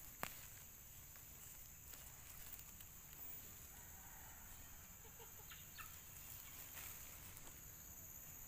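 Near silence: faint outdoor ambience with a steady high hiss, a single light click just after the start and a few faint short calls around the middle.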